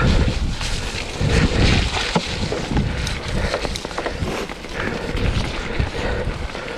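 Mountain bike descending a wet, muddy trail: wind buffets the microphone while the tyres roll and the bike clatters over bumps in a run of short knocks.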